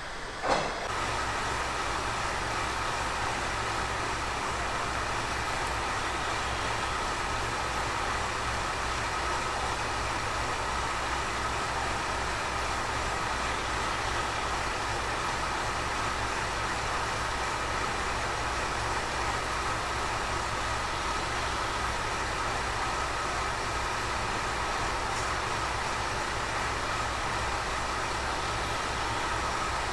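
Steady running noise of a vehicle, with a constant whine and a low hum that do not change, after a short sharp click about half a second in.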